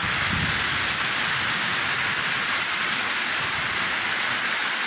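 Heavy rain falling steadily onto a flooded street, an even, unbroken hiss.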